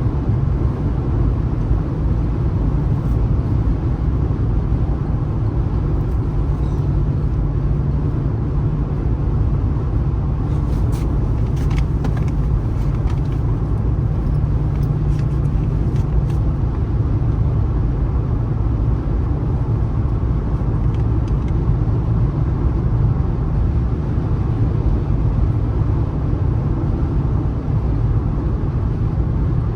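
Car driving at speed on a highway: a steady low rumble of engine and tyre-on-road noise, with a few faint clicks in the middle stretch.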